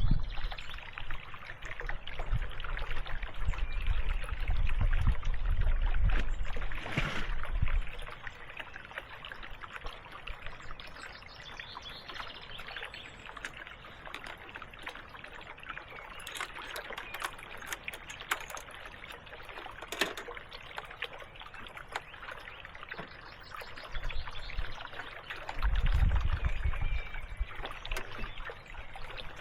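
Water trickling steadily, with a loud low rumble over it for the first eight seconds and again for a few seconds near the end.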